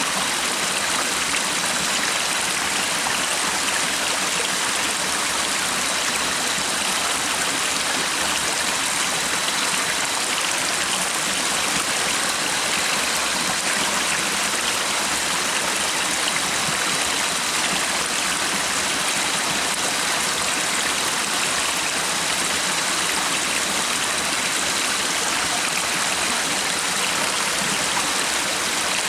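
A stream of water running steadily, an even, unbroken rushing.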